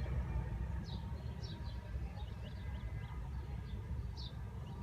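Small birds chirping: several short, high chirps scattered through, over a steady low rumble.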